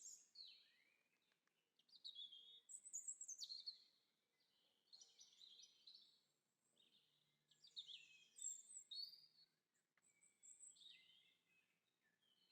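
Faint birdsong: small birds chirping and twittering in repeated bursts of quick high notes and short falling whistles.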